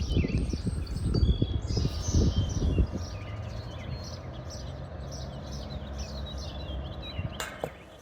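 Several birds chirping and calling again and again in short high notes. A low rumbling noise fills the first three seconds, and one sharp knock comes near the end.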